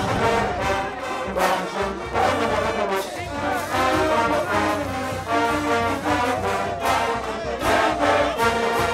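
Brass band music: trombones and trumpets playing a lively tune in steady held notes with regular accents.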